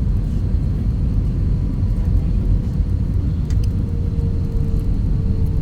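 Airliner cabin noise during landing: a steady low rumble of engines and airflow, with a thin steady hum that dips slightly in pitch near the end.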